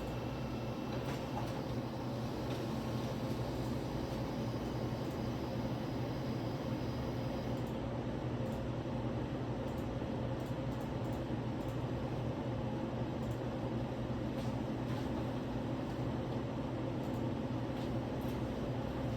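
A steady, low mechanical hum with a few faint ticks and taps over it.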